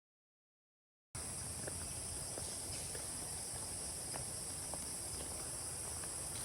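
After about a second of dead silence, a steady high-pitched insect chorus comes in and runs on without a break, with a few faint ticks over it.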